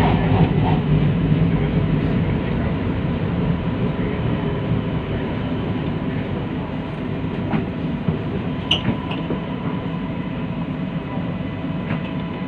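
Rumble of a metro train heard from inside the carriage as it runs on its track, with a steady whine over it, easing off as the train slows into a station. There is one short click about nine seconds in.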